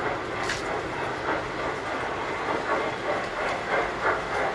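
Tinplate toy trains running on metal track: a steady rattling clatter of wheels over the rails, with a sharp click about half a second in.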